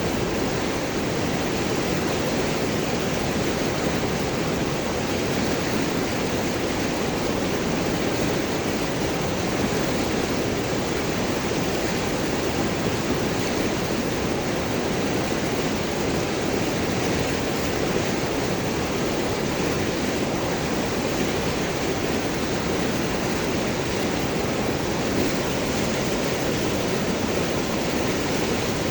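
River water flowing over and around large rocks, a steady rushing and gurgling.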